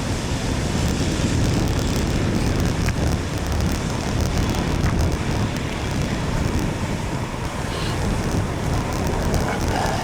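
Wind buffeting a bike-mounted microphone over a steady rush of road and traffic noise on a wet road.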